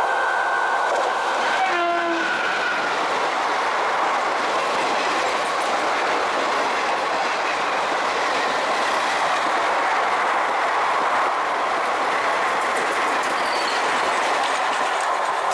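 Express train behind an electric locomotive running through a station at speed. The locomotive's horn sounds briefly about two seconds in, then comes the steady rush of the coaches going by on the rails.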